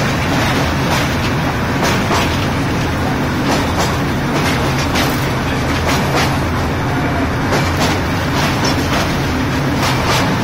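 Darjeeling Himalayan Railway narrow-gauge train rolling across a steel truss bridge, heard from beside the coach: a steady rumble of wheels and coaches with frequent irregular clicks from the rails.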